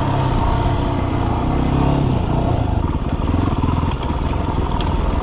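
Yamaha WR250R dual-sport motorcycle's single-cylinder engine running steadily at low trail speed, its pitch shifting a little about halfway through.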